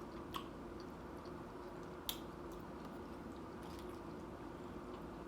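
A person quietly chewing nachos, with wet mouth sounds and a couple of sharp clicks, the louder one about two seconds in, over a steady faint hum.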